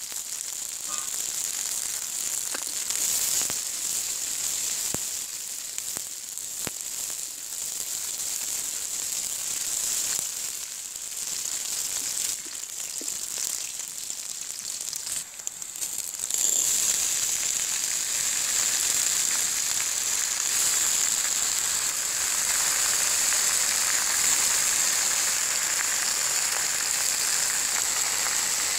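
Chopped garlic and green chillies sizzling in hot oil in an iron wok, with faint scrapes of a wooden spatula stirring. About halfway through, the sizzle suddenly turns louder and denser as wet red spinach leaves go into the hot oil, and stays steady.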